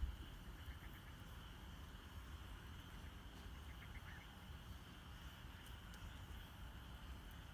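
Campfire burning softly with faint scattered crackles and a low rumble, under a steady high trilling chorus of night insects.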